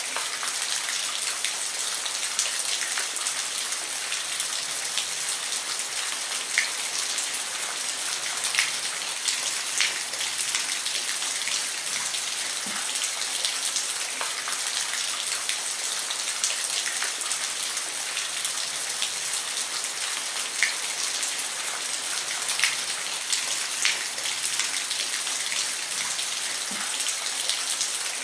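Steady rain falling on a roof: an even hiss, with single louder drops tapping out every second or two.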